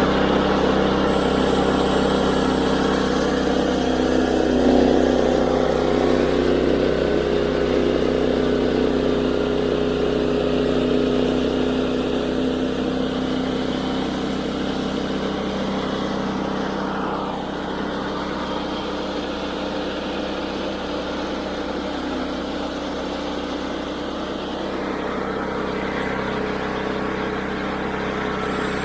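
Woodland Mills HM122 band sawmill's 9.5 hp gasoline engine running steadily at speed, driving the band blade through a walnut log.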